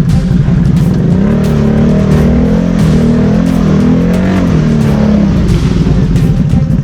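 BRP Outlander 650 ATV's V-twin engine revving under load, its pitch climbing about a second and a half in, wavering, and dropping back near the end.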